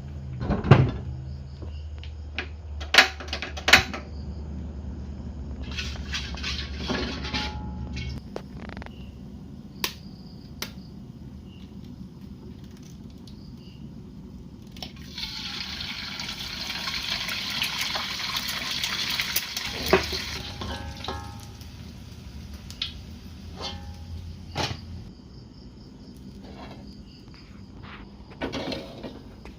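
Kitchen clatter: scattered clinks and knocks of dishes or utensils, with a stretch of running or pouring water for about six seconds midway.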